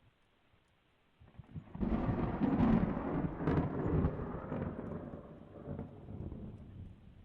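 A peal of thunder, a dubbed-in thunder recording. The rumble starts about a second in, builds to a loud roll with a few sharp cracks, then fades away over several seconds.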